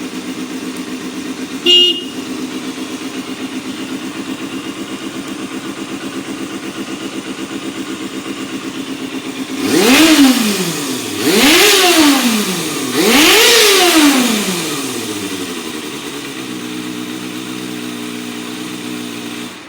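Kawasaki Balius II ZR250B's 250 cc inline-four engine idling steadily, with a brief loud beep about two seconds in. Around ten seconds in the throttle is blipped three times, each rev rising and falling back, and the engine then settles back to idle.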